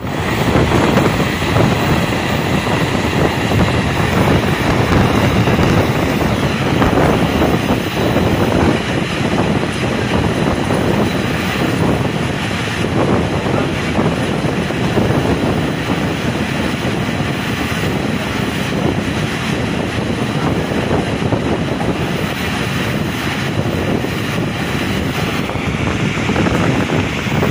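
Passenger train running at speed, heard from an open coach window: a loud, steady rush of wind and wheel-on-rail rumble.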